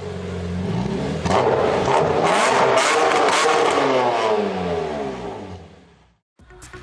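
VW Scirocco 2.0 TDI four-cylinder diesel engine on a chassis dyno: it runs steadily for about a second, then pulls hard and loud under load for a few seconds before winding down and cutting off about six seconds in.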